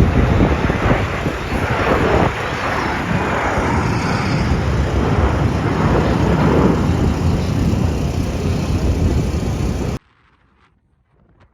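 Loud, steady rushing noise of aircraft engines, with a strong low rumble, that cuts off suddenly about ten seconds in.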